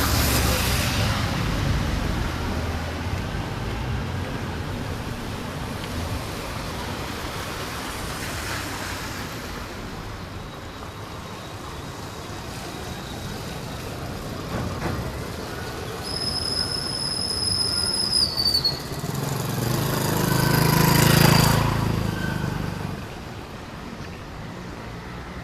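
Road traffic passing on a wet street. A high-pitched squeal lasts about two seconds, past the middle, and slides down as it ends. A vehicle then passes close by, getting louder and fading away near the end.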